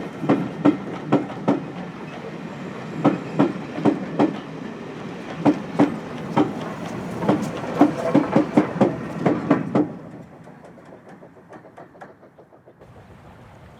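Railway wheels of a passing train's carriages or wagons clattering over rail joints, a steady clickety-clack of paired clicks. The train passes and the clatter falls away sharply about ten seconds in, leaving a quieter rushing sound.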